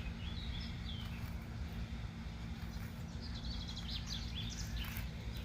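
Small birds chirping in short calls, twice, over a steady low background rumble.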